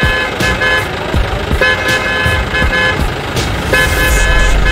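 A horn tooting in groups of short beeps, one group about every two seconds, over a steady rumble with scattered clicks.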